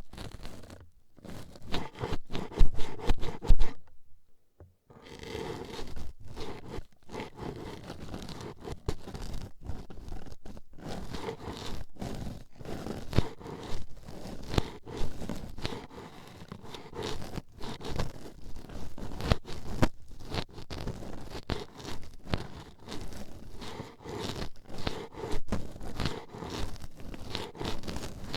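Toothpicks jabbing and scraping rapidly at a binaural microphone's ear, a dense run of close clicks and scratches, with a brief pause about four seconds in.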